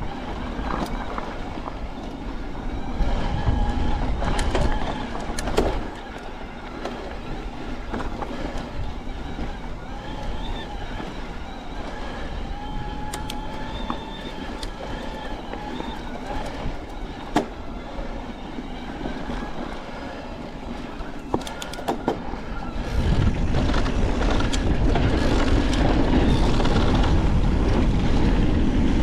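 Mountain bike riding down a dirt singletrack: continuous tyre-on-dirt and wind noise with frequent clicks and rattles from the bike, and faint thin squeals. About 23 s in it grows louder, with a heavier low rumble.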